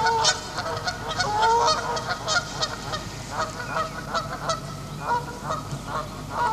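Geese honking, short calls coming in quick succession with several birds calling over one another.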